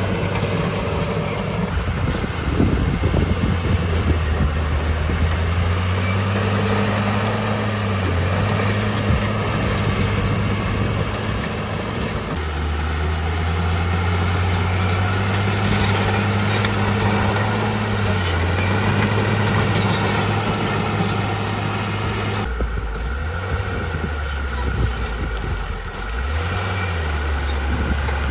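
Heavy diesel engine of earthmoving machinery running under load, its pitch rising and then easing back several times. The sound changes abruptly twice, about 12 and 22 seconds in.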